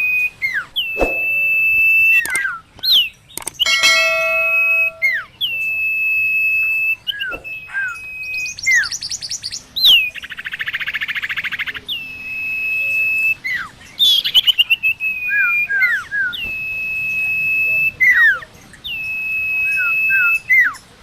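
Sirtu (sirpo) bird calling over and over: each call slurs down into a long held high whistle, then ends in two or three short falling notes, about every two to three seconds. About ten seconds in there is a harsh, buzzy rattle lasting around two seconds.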